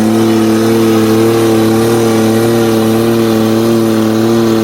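V6 Ford Ranger engine held at steady high revs, its pitch wavering slightly without climbing or dropping.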